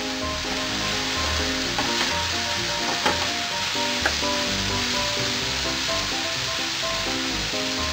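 Pork and Japanese long green onion sizzling in a hot frying pan as they are stir-fried with a wooden spatula. The spatula taps sharply against the pan about three and four seconds in. A light background melody plays throughout.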